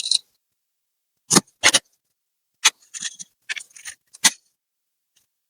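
Sharp clicks and taps from laptop parts and tools being handled: one at the start, a quick pair about a second and a half in, one more near the middle, and a last one near the end. Short scraping rustles fall between the last two clicks.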